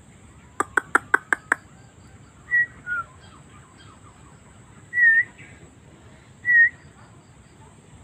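A quick run of six sharp clicks, then short whistled bird calls from the tree canopy: four brief notes with a bend in pitch, the first two close together and the others a second or two apart.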